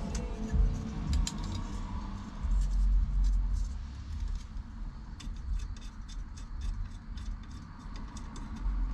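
Small metal parts and hand tools being handled while working the steering-wheel mounting bolts: light metallic clicks and knocks, then a run of quick, evenly spaced clicks in the second half, over a low rumble.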